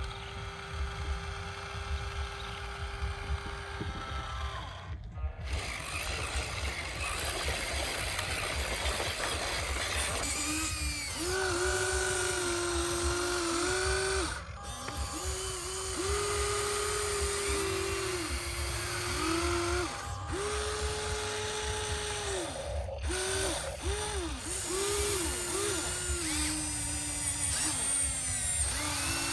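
Small electric motors of remote-control construction toys whining in short runs. Each run rises in pitch as it starts and falls as it stops, at a few different pitches, from about ten seconds in; a steady whine holds for the first few seconds.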